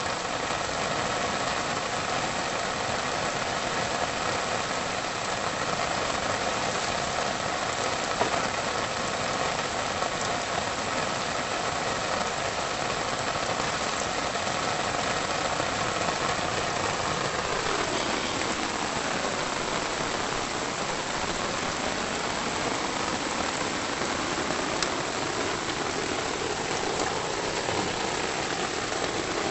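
A small engine running steadily; about two-thirds of the way through its pitch drops and then climbs back up.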